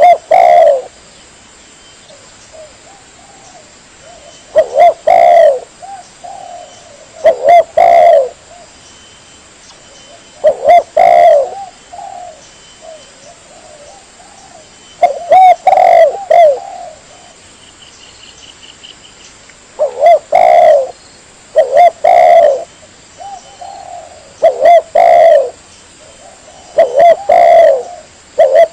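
Spotted dove (tekukur) lure call: loud cooing phrases of two or three coos each, repeated about nine times with pauses of one to four seconds between.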